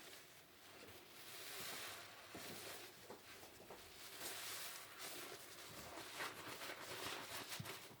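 Car sponge squished and rubbed in soapy water: wet swishing with crackling suds and small clicks throughout.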